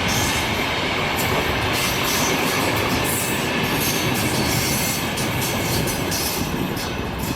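A train running on the track past the listener: a steady, loud rumble of wheels on rails that eases a little near the end.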